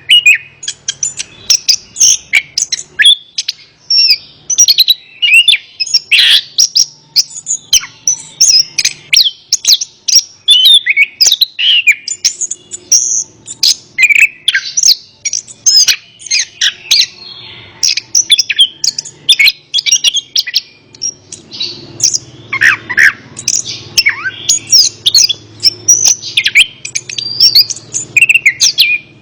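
Chestnut-capped thrush (anis kembang) singing a continuous, rapid run of varied chirps and whistled notes, with many quick pitch glides.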